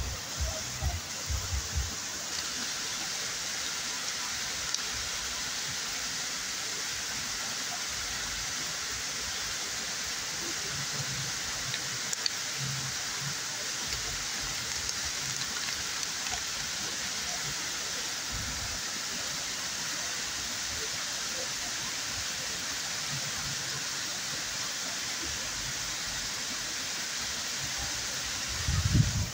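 Waterfall: a steady, even rush of falling water, with a few low thuds in the first couple of seconds and a louder low rumble near the end.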